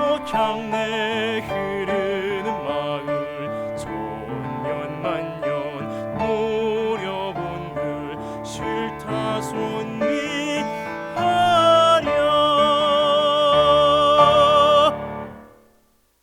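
Baritone singing with piano accompaniment, closing the song on a long held note with vibrato; the music stops about fifteen seconds in and dies away.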